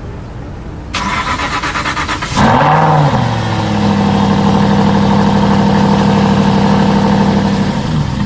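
A car engine starts about a second in, revs briefly, then runs at a steady raised speed for several seconds before easing off near the end.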